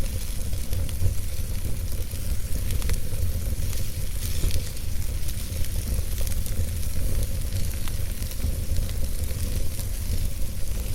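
Wood fire burning in a fireplace: a steady low rumble and hiss of flames with scattered crackles and pops from the burning logs.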